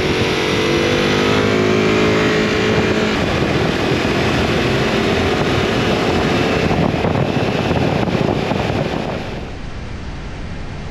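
Ducati Multistrada V4's V4 engine running under way, its revs falling over the first few seconds, mixed with rushing wind noise; the sound drops in level near the end.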